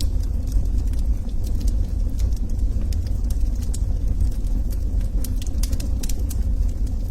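Log fire crackling in a fireplace: scattered sharp pops and snaps over a steady low rumble of burning, with a busier run of pops after about five seconds.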